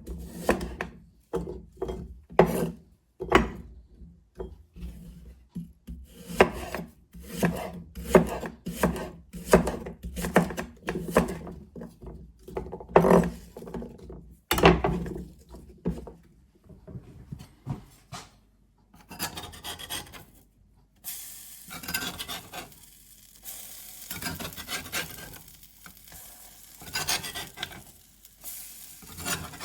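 Food preparation: a run of quick, evenly repeated rubbing or scraping strokes on wood, then after a short lull a steady sizzle of food frying in a hot pan, with a few scrapes as it is stirred or turned.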